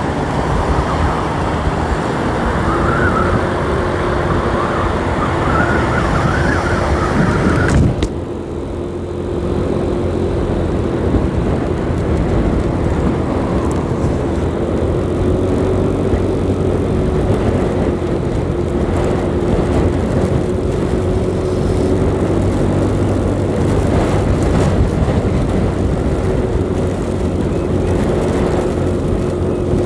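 A 125cc motorcycle being ridden at a steady pace, its engine droning under heavy wind rush on the microphone. A warbling higher tone is heard for the first several seconds, and the sound changes abruptly about eight seconds in.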